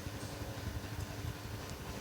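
Elitesat 900 mm mini ceiling fan running, its motor giving a steady hum over an uneven low rumble. The fan is a bit noisy and has a little wobble.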